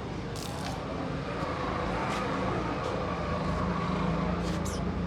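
Car engine running steadily, its hum growing a little louder in the first couple of seconds, with a few short high hisses or clicks over it.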